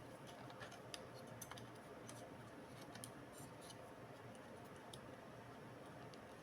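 Faint, scattered light clicks and ticks over quiet room hiss, most of them in the first few seconds: small tools and plastic laptop parts being handled during disassembly.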